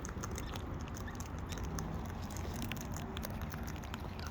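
Rapid, scattered small clicks and taps of birds' beaks pecking and cracking seed, over a steady low rumble.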